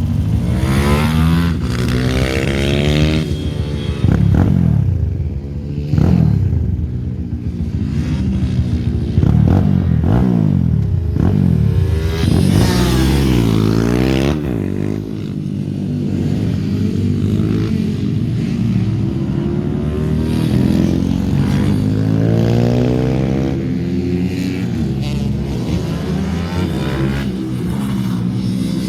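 Small racing minibike engines, among them an Ohvale 160, revving hard and backing off through the gears, several engines at once with pitches rising and falling and crossing as bikes go by.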